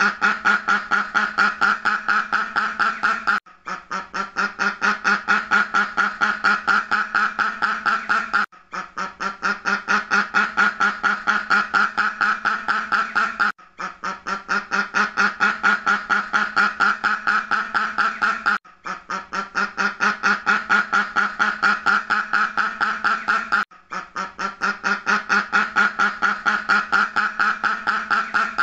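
A duck quacking in rapid series, about five quacks a second, in runs of about five seconds that grow louder, each separated by a brief break; the same recording repeats as a loop.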